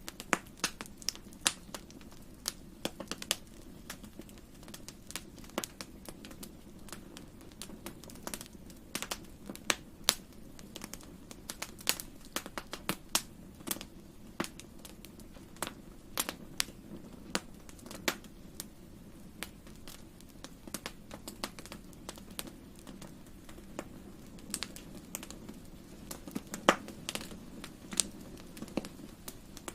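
Fire burning in a fireplace, crackling with irregular sharp pops and snaps over a low steady rumble.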